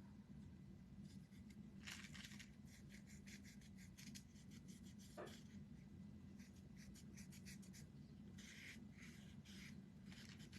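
Faint, near-quiet scratching and light rubbing from hands working on small wooden craft pieces, in a string of short scrapes and ticks over a low steady hum.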